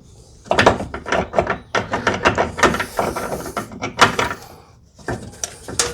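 Metal clanking and scraping as the transmission mount is worked into place between the subframe and the jacked-up transmission. It is a run of irregular knocks lasting about four seconds, with the loudest knock about four seconds in.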